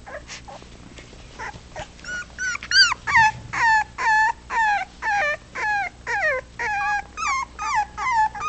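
Four-week-old puppy whining: a rapid run of high cries that fall in pitch, about three a second, starting a couple of seconds in.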